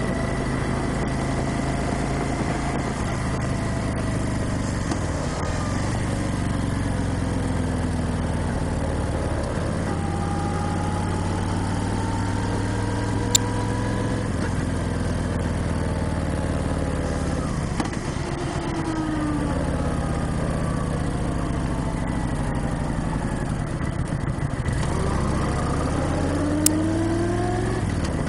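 Motorcycle engine running on the road, its pitch rising and falling repeatedly as it accelerates and eases off through the gears. Two short sharp clicks come near the middle and near the end.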